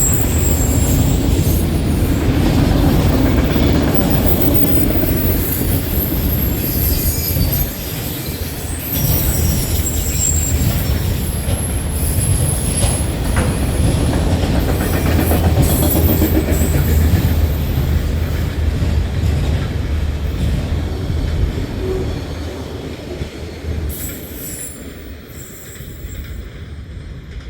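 Canadian National freight train's cars rolling past: a steady low rumble of wheels on rail with high-pitched wheel squeal and occasional clicks, fading over the last few seconds.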